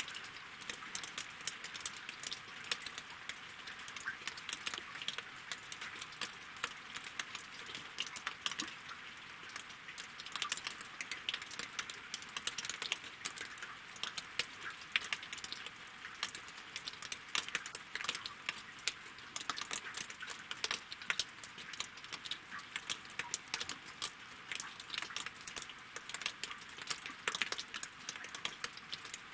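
Rain falling on a lake and on logs: a steady patter of countless drops, with many sharp little ticks standing out among them.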